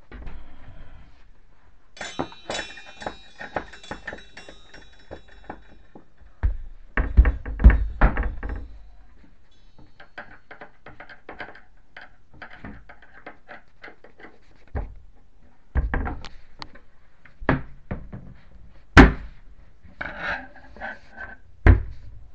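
Knocks and metal clatter from handling a kitchen cabinet's metal pull-out basket and its rails. A spell of ringing metallic clinks starts about two seconds in, followed by heavy thunks at irregular intervals.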